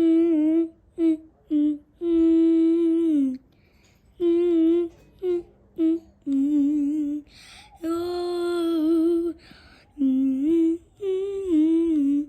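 A voice humming a wordless tune in held notes with short pauses between phrases, a few notes wavering in pitch.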